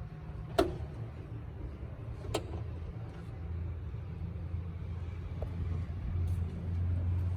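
Toyota Land Cruiser engine running with a steady low rumble that swells near the end. Two sharp clicks come through, one about half a second in and another about two seconds later.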